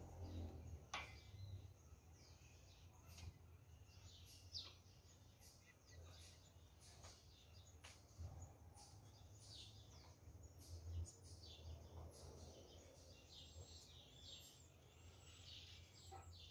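Faint birds chirping, many short calls scattered throughout, over a low steady hum.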